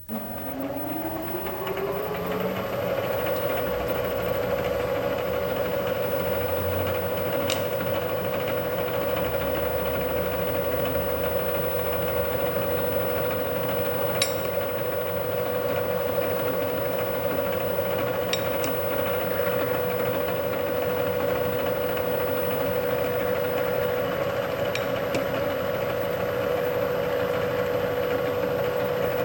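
A machine tool's electric motor starting and running up to speed, its pitch rising for about two seconds, then running with a steady hum. A few light clicks sound over it.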